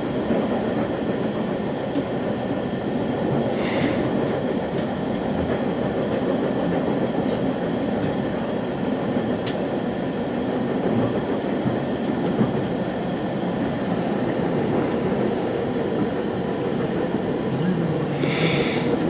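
West Coast Express commuter train heard from inside a passenger car: a steady rumble of the train running, with a few brief hissing bursts, the longest near the end.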